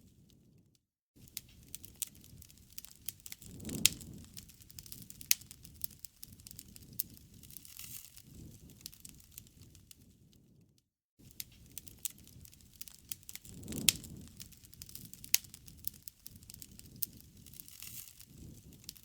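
Wood campfire crackling: scattered sharp pops and snaps over a soft low rumble of the flames. The sound drops out briefly twice, about a second in and again about halfway, where the recording loops and repeats.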